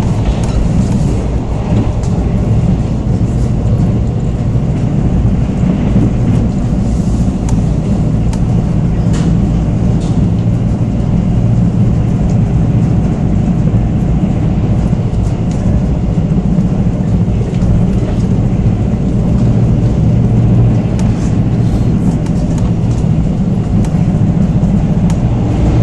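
Steady low rumble of a Korail Mugunghwa-ho passenger train running at speed, heard from inside the carriage, with a few faint ticks.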